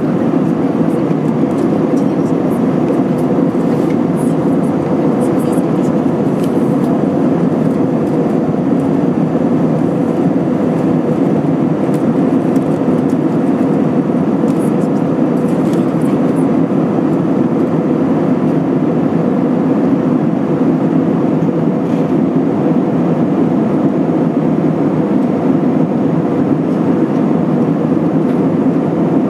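Steady cabin drone of an Airbus A320 in flight, its IAE V2500 engines and the airflow past the fuselage giving an even low rush with a faint steady hum in it.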